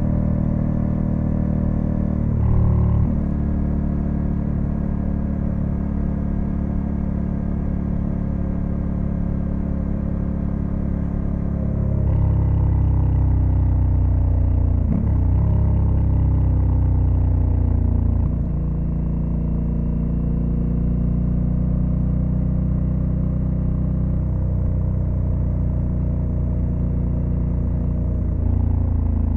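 Honda Africa Twin CRF1100L's parallel-twin engine running under way, with wind and road noise. About twelve seconds in it grows louder as the rider opens the throttle, its pitch sweeping down and back up, then it eases off about eighteen seconds in.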